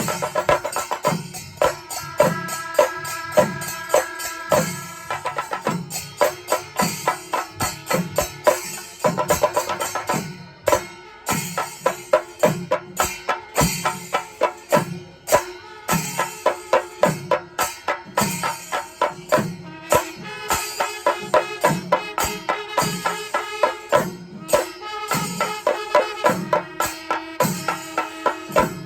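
Panchari melam, Kerala temple percussion: chenda drums beating a steady rhythm under constant ilathalam cymbal clashes, with wind instruments sounding held notes at times.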